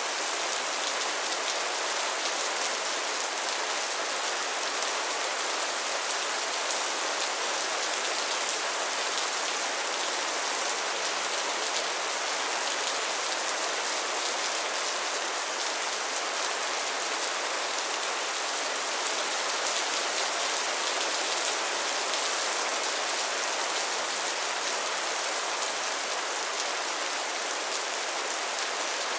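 Steady rain, a dense even hiss of drops falling on a surface, with fine drop ticks throughout.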